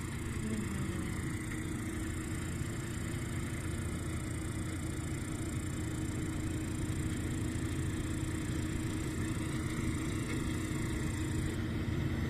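Diesel engines of a combine harvester and KamAZ trucks running steadily as a low rumble. Grasshoppers chirp over it as a high steady buzz that stops shortly before the end.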